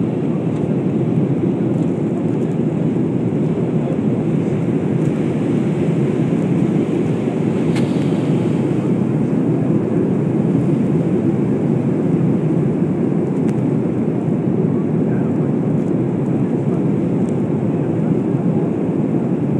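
Steady cabin noise inside a jet airliner in flight: an even, low rush of engine and airflow at constant strength, with a faint click about eight seconds in.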